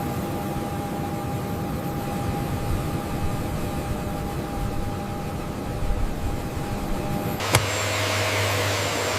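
Steady machine noise with a thin, steady high whine. About seven and a half seconds in there is a sharp click, and the sound changes to a different steady noise with a low hum.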